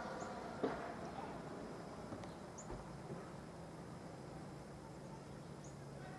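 Faint outdoor ambience during a snowstorm: a steady low hum, with one short knock about half a second in and three brief high chirps spread through.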